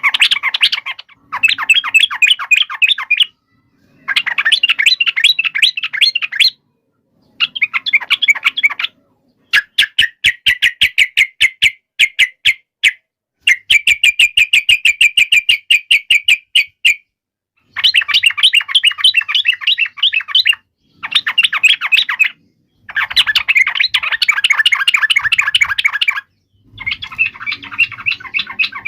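Yellow-vented bulbul (cucak trucuk) giving loud, rapid, harsh chattering calls in bursts of a few seconds with short pauses between. The calls are the bird's agitated 'fighting' chatter.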